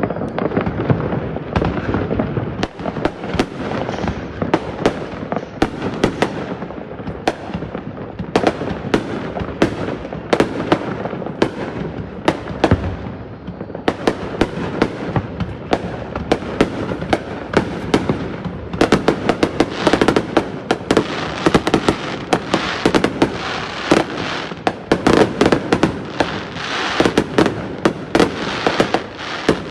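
New Year fireworks display: a continuous barrage of bangs and crackles, several reports a second, growing denser and louder about two-thirds of the way through.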